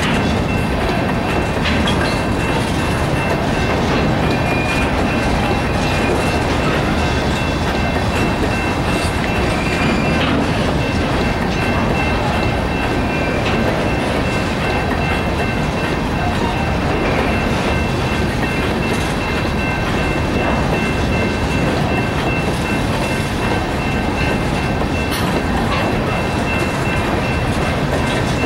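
Freight cars rolling steadily past, their wheels clattering over the rail joints. Over the rumble, a General Signals Type-2 electronic crossing bell rings as a steady high tone.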